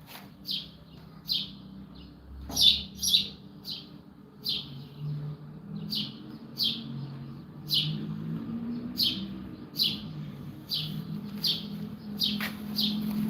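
A small bird chirping over and over, short falling chirps one to two a second, loudest about two and a half seconds in, over a low steady hum.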